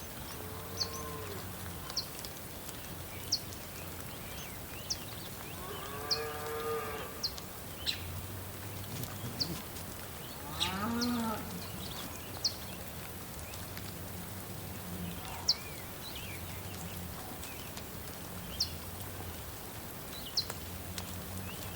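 Cattle mooing, with a few drawn-out calls, the clearest about six and eleven seconds in. Short high chirps repeat about every second and a half underneath.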